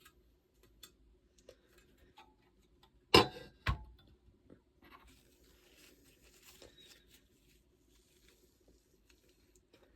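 Handling noise from cleaning an old pocket cornet's valve parts: scattered faint clicks, two sharp knocks of the metal parts about half a second apart a little after three seconds in, then a few seconds of faint rubbing as a paper towel wipes the parts.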